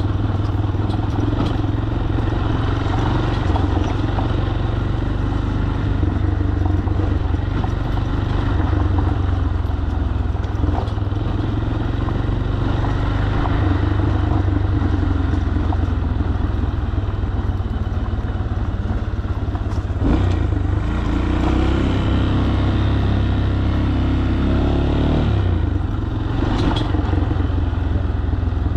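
Single-cylinder 200 cc Falat motorcycle engine running steadily while riding; about three quarters of the way through its pitch climbs for a few seconds under acceleration, then drops back.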